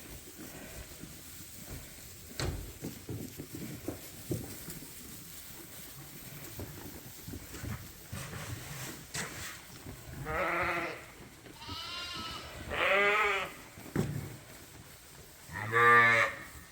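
Ewes and lambs bleating: four calls in the second half, one of them higher than the others. Before the calls there is faint shuffling with a few knocks.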